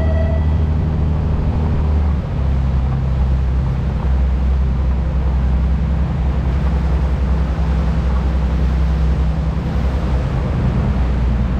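Sightseeing boat's engine running steadily, a loud low drone, its note shifting slightly about two seconds in.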